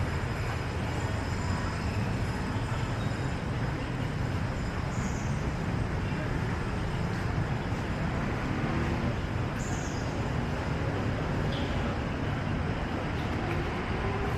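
City street traffic noise: a steady rumble of passing vehicle engines and tyres. Near the end, one engine rises in pitch as it speeds up.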